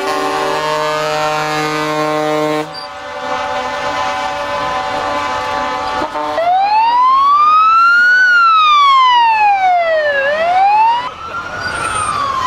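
Truck air horns blaring together as a held chord, changing about two and a half seconds in, then from about six seconds in a siren wailing in slow sweeps, rising for about two seconds and falling for about two.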